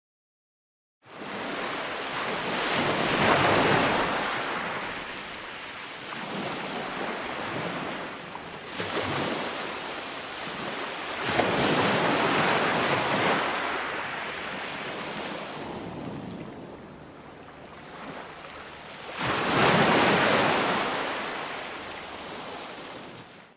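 Ocean waves breaking and washing in, with three big surges about eight seconds apart and quieter wash between them. The sound cuts in after about a second of silence and stops abruptly at the very end.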